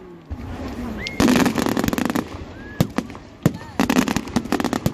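Fireworks going off: two stretches of rapid crackling, one about a second in and one near the end, with a few single sharp bangs between them.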